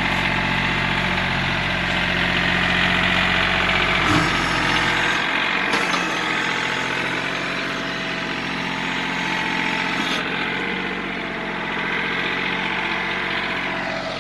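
The three-cylinder Yanmar diesel of a John Deere 4210 compact tractor running steadily. There is a short knock about four seconds in, and the deepest part of the engine sound drops away about a second later.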